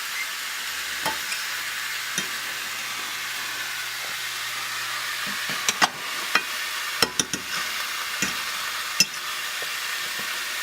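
Bone-in steak searing in a hot grill pan, a steady sizzle. Several sharp clicks and knocks come between about five and nine seconds in.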